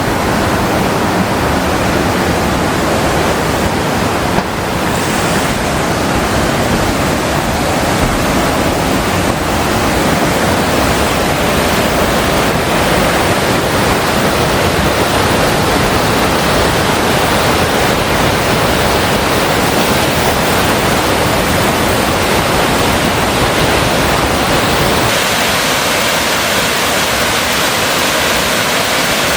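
Mountain stream water rushing in a steady, loud hiss, thinning in its low rumble near the end.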